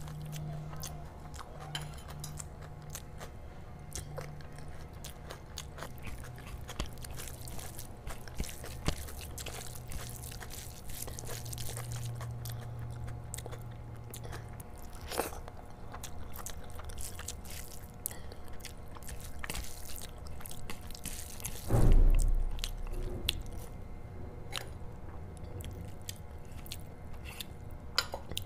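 Close-miked chewing of mouthfuls of rice and curry, with many small wet mouth clicks. One dull thump about three quarters of the way through is the loudest sound.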